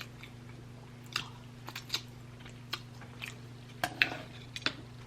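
Close-miked chewing of food: scattered short wet mouth clicks and smacks, over a faint steady low hum.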